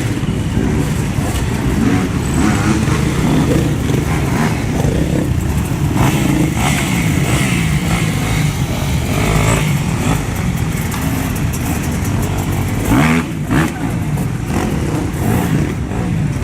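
Off-road motorcycle engines running and revving without a break, their pitch rising and falling as the throttle opens and closes.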